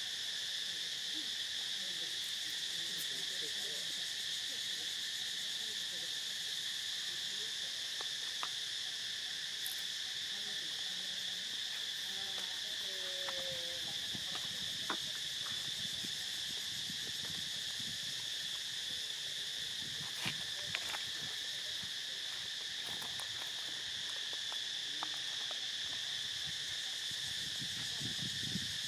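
Steady chorus of insects, a continuous high-pitched drone, with a few faint clicks.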